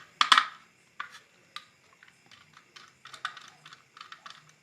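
Small sharp clicks and taps of hands and tools working on a wall switchboard while its faulty fan regulator is taken out. There are two louder clicks at the start, then a run of lighter, irregular clicks.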